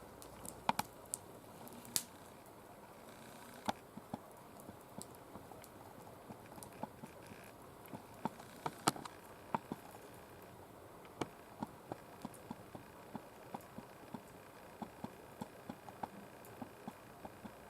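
Oak twigs burning in a mesh fire pit, crackling with irregular sharp pops over a soft hiss. The oak was cut only months ago and is not fully dry.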